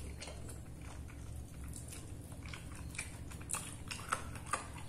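A person chewing and biting spicy chicken feet with the mouth closed: faint, irregular little clicks and crunches, a few louder ones near the end, over a low steady hum.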